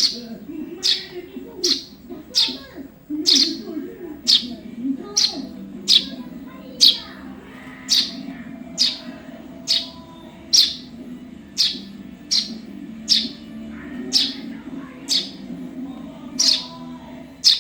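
Juvenile Eurasian tree sparrow chirping: sharp, short, downward-slurred chirps repeated evenly a little more than once a second, over a low background murmur.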